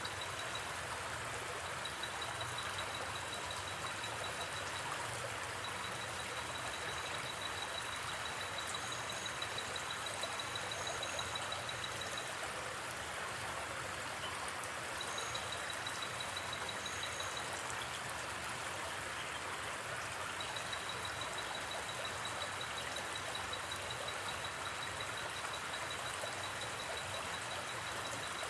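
River water flowing with a steady rush. Over it, night insects trill in a high, rapidly pulsing tone that runs in long stretches with short breaks, and a few brief higher chirps come in twice.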